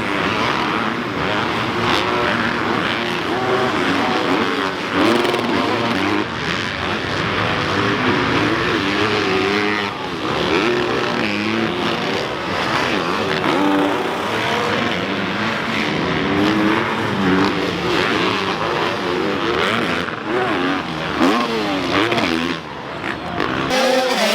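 Motocross dirt bike engines racing on a track, revving up and falling back again and again as the riders shift and throttle through the course.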